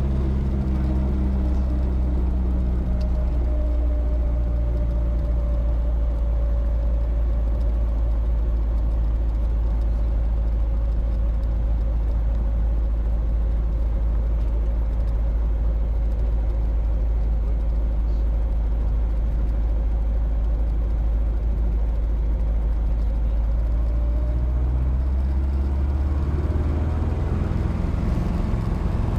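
Robinson R22 helicopter's four-cylinder Lycoming piston engine and rotor system running at a steady setting: a loud, constant low drone.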